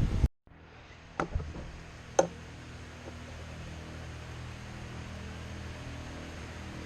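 A steady low hum with two sharp clicks, one about a second in and one about two seconds in.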